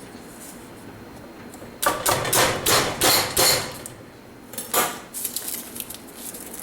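Several sharp knocks and taps on a kitchen work surface while a large fresh garlic clove is being handled: a cluster of hits about two seconds in, then two more near the five-second mark.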